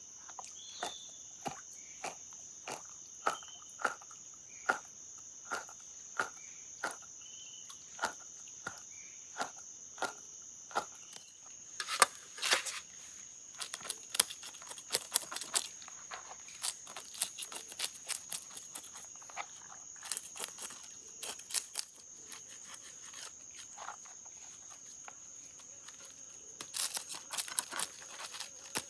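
Steady high-pitched insect chorus, crickets or similar, over a run of sharp clicks and scrapes, evenly about two a second for the first ten seconds, then irregular.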